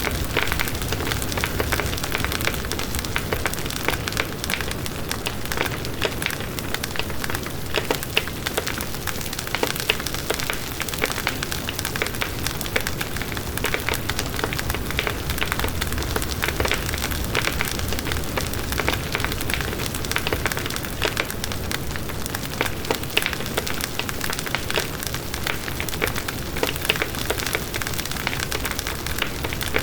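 Firewood burning in a fireplace, crackling: a steady hiss dotted with frequent, irregular small pops and snaps.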